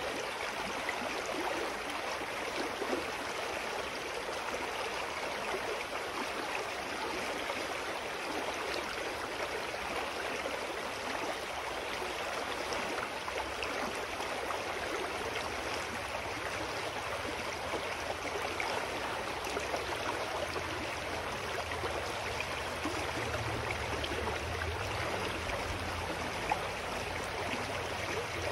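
Mountain stream flowing steadily. A low rumble comes in underneath about halfway through and grows toward the end.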